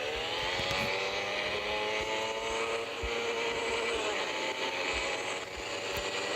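Motorcycle engine running at high revs; its pitch rises at the start, then slowly sinks and levels off as the throttle eases.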